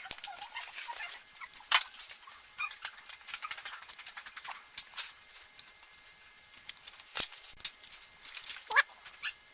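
Scattered clicks and taps of metal engine parts being handled while the piston is fitted onto the connecting rod, with a dog giving a short whimper near the end.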